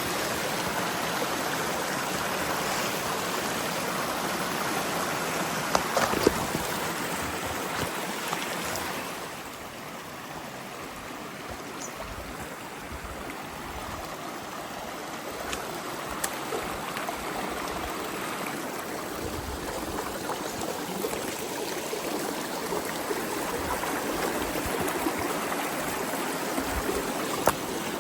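Creek water running, a steady rushing that drops somewhat about nine seconds in and slowly builds again, with a few sharp clicks.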